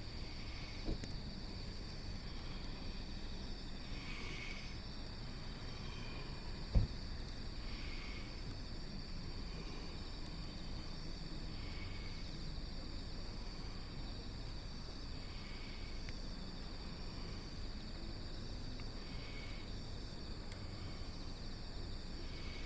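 Insects shrilling steadily outdoors, with a shorter call repeating every few seconds. A single sharp snap about seven seconds in stands out.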